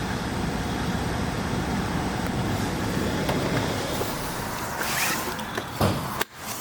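A car on the move: steady road and wind noise. Near the end there are a couple of knocks, then the sound cuts off suddenly.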